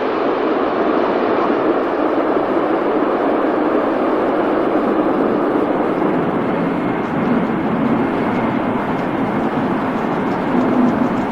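Steady rushing noise of an aircraft, engines and airflow blended into one even sound with no distinct beats.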